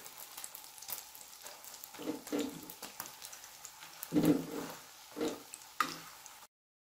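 Egg and potato patties frying in a little oil on a flat non-stick tawa: a faint steady sizzle, with a few short louder scrapes as a slotted steel spatula folds and presses the omelette. The sound cuts off suddenly near the end.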